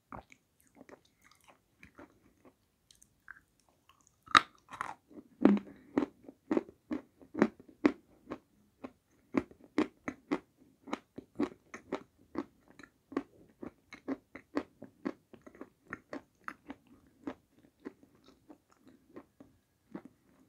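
Close-up crunching and chewing of dry edible clay: a few faint clicks at first, then steady crunches about two a second from around four seconds in.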